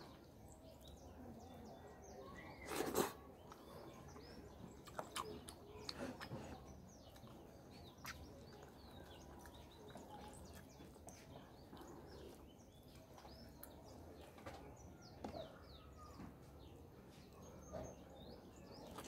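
Faint small birds chirping intermittently in the background over a low steady hum, with a few soft clicks and one louder short noise about three seconds in.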